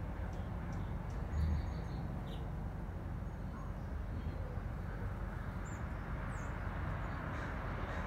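A few faint, short bird calls over a steady background rumble and hiss.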